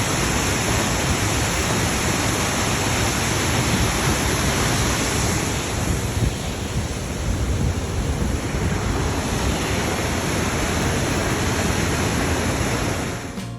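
Sol Duc Falls' water rushing in a steady, dense roar, which cuts off near the end.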